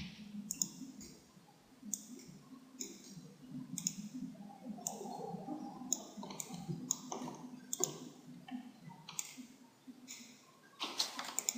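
Computer mouse clicking: about a dozen short, sharp clicks at irregular intervals.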